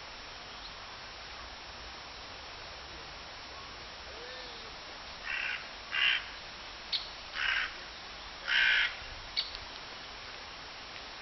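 A bird gives four harsh, caw-like calls, one after another, about halfway through, with a couple of single sharp taps in between.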